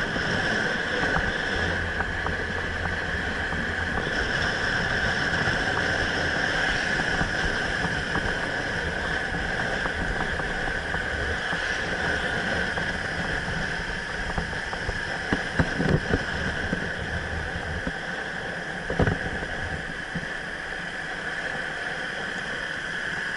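Motorbike running along the road, its steady engine and road noise mixed with wind on the microphone, with a few brief knocks about two-thirds of the way through.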